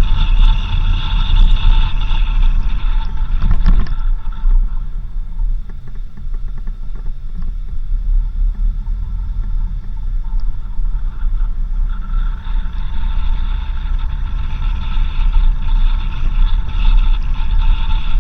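A 4x4 driving on a dirt road, with a heavy low rumble from the vehicle and the road. A steady high whine fades out about four seconds in and returns near the end. There is a short rattle just before the whine fades.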